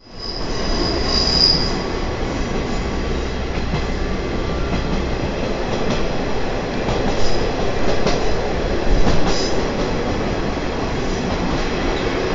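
Trolley train of the Watarase Keikoku Railway heard from aboard as it runs along the line: a steady rumble of wheels on the rails. A brief high wheel squeal comes about a second in, and a few sharp knocks follow later.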